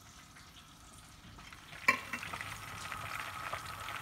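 Quiet at first, then about two seconds in a sharp knock, followed by frying and stirring: curry paste sizzling in a pot as it is stirred.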